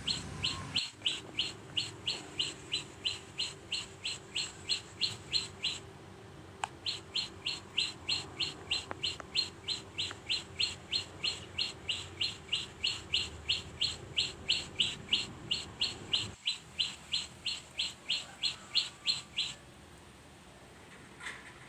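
A small bird chirping over and over, about three sharp high chirps a second, with a short break about six seconds in, stopping shortly before the end.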